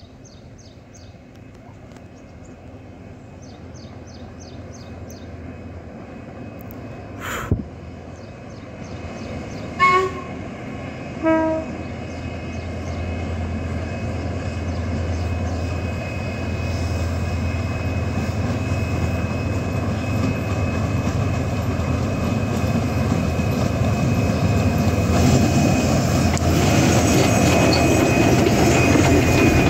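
An approaching train double-headed by the steam locomotive B2b 213 and the diesel M5c 775, its rumble growing steadily louder until it is passing close by near the end. Two short toots come from the train about ten and eleven seconds in. Birds chirp at first, and there is a single sharp click about seven seconds in.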